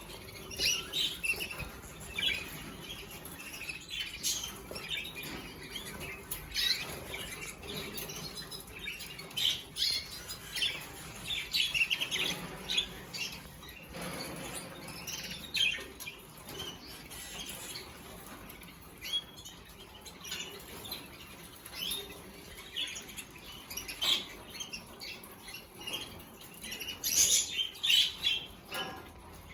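Canaries in a cage chirping in short irregular calls, with wings fluttering and small clicks and rustles as they hop about and peck at greens.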